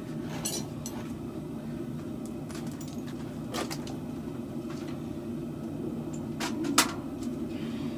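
Steady low mechanical hum with a few scattered sharp clicks and knocks, the loudest about seven seconds in.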